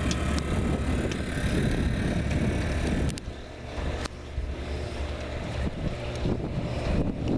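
Wind buffeting the microphone as an uneven rumble, with a few sharp knocks or clicks.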